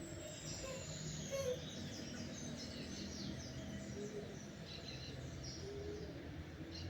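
Several small birds chirping and singing in quick, overlapping short phrases, one opening with a high falling whistle, over a steady low background rumble.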